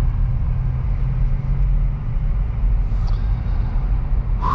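Cabin sound of a 2023 Acura Integra's 1.5-litre turbocharged four-cylinder running at low revs on the move, with road rumble; its steady engine note fades about two seconds in.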